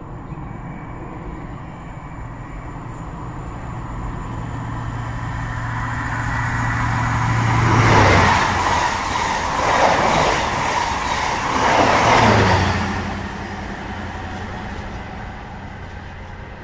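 A train passing by. Its noise builds up slowly, swells in three surges through the middle, then dies away.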